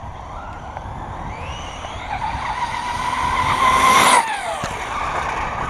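1/5-scale Redcat Rampage MT V3 RC monster truck on 8S power accelerating hard: its drivetrain whine rises in pitch for a couple of seconds, then cuts off sharply about four seconds in and winds down, over steady tire noise.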